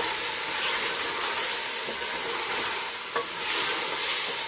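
Chicken and tomatoes sizzling in hot oil in an aluminium pressure-cooker pot as they are fried down (bhuna), stirred with a wooden spoon scraping the pot. A single short click about three seconds in.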